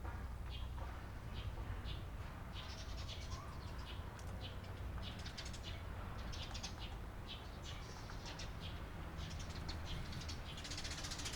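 Eurasian tree sparrows chirping: many short, high chirps at an irregular pace, coming thick and fast near the end, over a steady low rumble.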